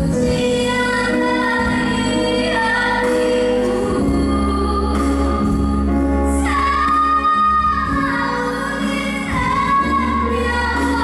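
A woman singing a slow song, holding long notes, over instrumental accompaniment with a steady bass.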